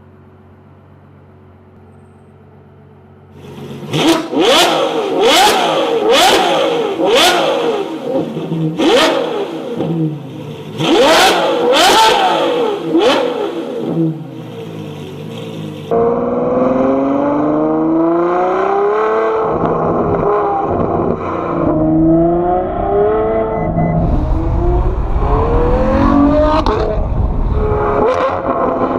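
Ferrari F12's V12 (Novitec Rosso N-Largo) through a loud aftermarket exhaust: idling quietly, then from about four seconds revved hard repeatedly, each rev rising and falling sharply with cracks. About sixteen seconds in the sound changes to the car accelerating, its pitch climbing again and again as it runs up through the gears.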